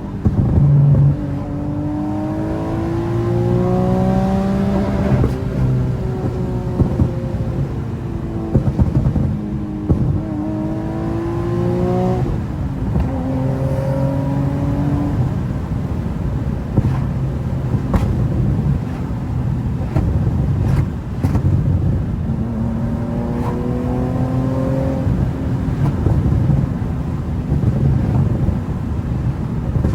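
Infiniti G37's V6 accelerating hard, its pitch climbing through the revs in three pulls with steady running between them. A few sharp pops come in between the pulls, on a tune the driver calls a flame map.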